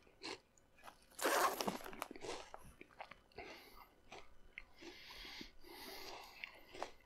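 A person biting into and chewing Chester's Ranch Fries, a crisp puffed snack stick: one louder crunch about a second in, then a run of softer crunching as he chews.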